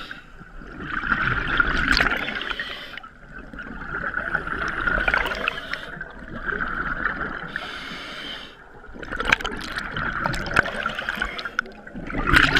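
Scuba diver breathing underwater through a regulator: a short hiss of inhalation, then longer bursts of exhaled bubbles gurgling up, repeating in slow cycles.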